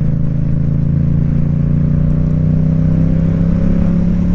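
Motorcycle engine running under way at a steady cruise, its pitch climbing slowly as the bike gently speeds up.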